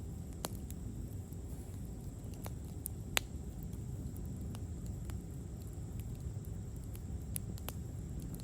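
Campfire crackling: scattered sharp pops and snaps at irregular intervals, the loudest about three seconds in, over a low steady rumble.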